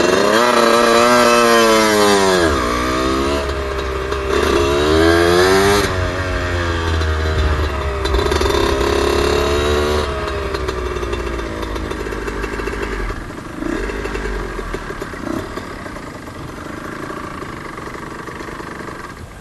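Suzuki RM125 two-stroke single-cylinder engine revving up and down several times while the bike is ridden a short way at low speed, then settling to a quieter, lower run for the last several seconds.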